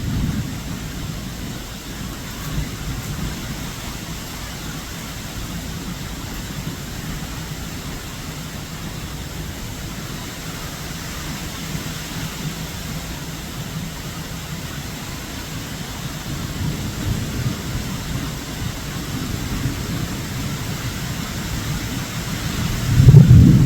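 Storm noise of wind and rain, steady at first and building, with a loud low rumble near the end.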